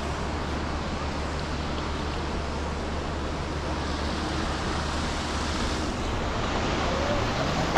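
Car driving on snow-wet city streets: a steady hiss of tyres on the wet road over a low engine hum. Near the end the engine's pitch rises as it accelerates.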